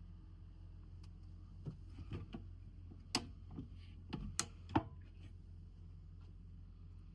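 A handful of sharp clicks and knocks, irregularly spaced and bunched in the middle seconds, over a low steady hum.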